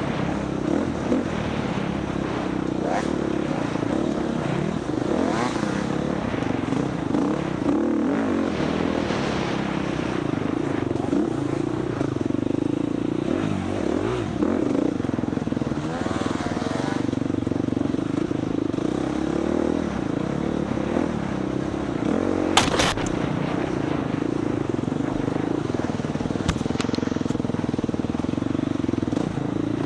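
Four-stroke dirt bike engine running hard through an off-road race, its pitch rising and falling as the rider works the throttle, with one sharp knock about three-quarters of the way in.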